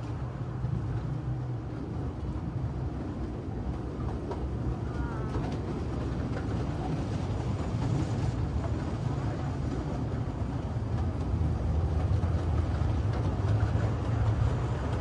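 Kurobe Gorge Railway narrow-gauge sightseeing train running, heard on board: a steady rumble of wheels on rail that grows gradually louder.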